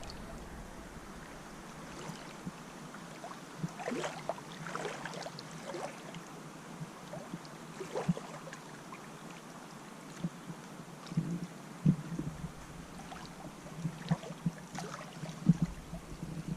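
Gentle water sounds, lapping and small splashes, with scattered faint knocks.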